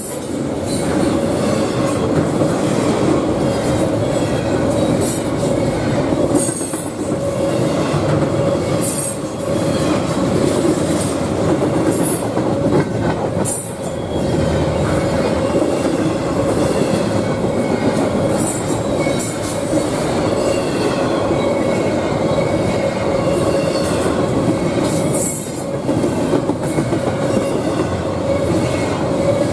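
Double-stack intermodal freight train's well cars rolling past: a steady rumble with a continuous squealing tone from the wheels and occasional sharp clacks as wheels pass over rail joints.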